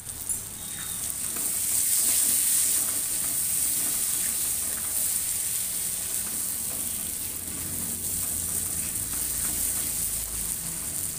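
Vegetables sizzling as they fry in a hot iron wok, stirred and turned with a flat spatula. The sizzle swells about two seconds in.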